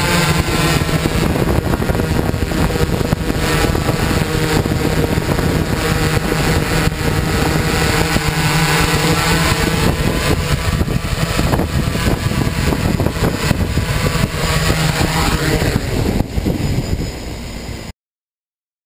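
Hexacopter's six electric motors and propellers buzzing steadily in flight. The sound dips a little near the end, then cuts off suddenly.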